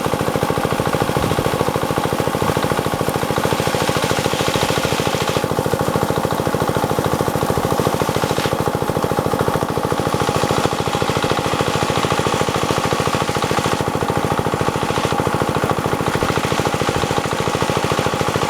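Diesel engine of an irrigation water pump running steadily at a constant speed, with a rapid, even chugging beat throughout.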